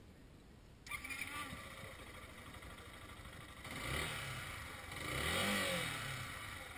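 Yamaha Fazer 150 Blueflex single-cylinder motorcycle engine, coming in suddenly about a second in and running, then revved up and back down twice.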